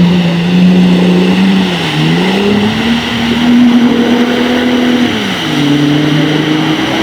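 A car engine held at steady raised revs. The pitch dips and climbs to a higher hold about two seconds in, then falls to a lower hold about five seconds in.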